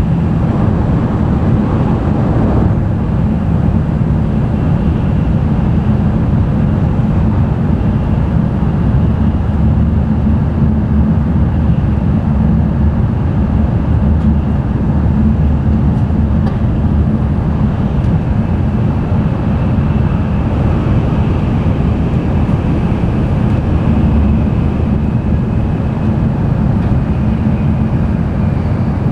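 N700-series Shinkansen train running at speed, heard inside the passenger cabin: a steady deep rumble from the wheels and track with rushing air noise over it. A faint high whine is held throughout, and the mid-range noise swells briefly in the first couple of seconds.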